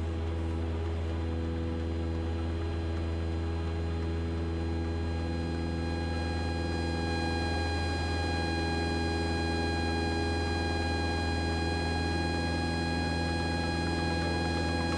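Single-engine Cessna's engine and propeller droning steadily in the cockpit during cruise on the downwind leg, a constant low hum with a few thin higher tones.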